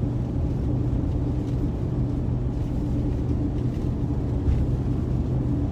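Steady road and engine drone inside a car cruising at about 45 mph, a low rumble with a faint steady hum.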